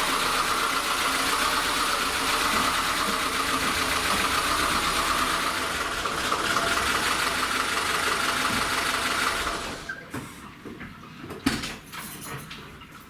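Car engine running steadily, then cut off about ten seconds in; scattered quieter clicks and knocks follow.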